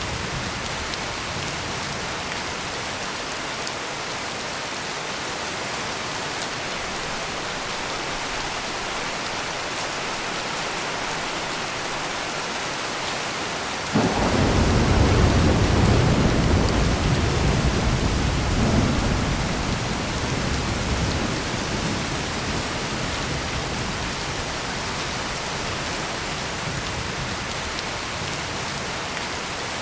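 Heavy rain falling steadily. About halfway through, thunder breaks in suddenly and rumbles low for several seconds before fading back under the rain.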